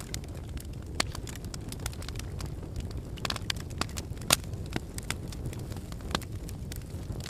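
Wood fire burning in a fireplace: a steady low rumble of flames with irregular sharp crackles and pops, the loudest pop about four seconds in.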